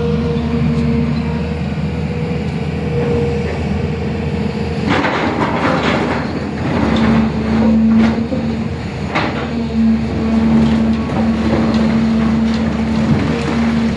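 A JCB excavator's diesel engine running steadily. From about five seconds in, clanks, knocks and scraping of the machine at work join it, along with a steady whine that comes and goes.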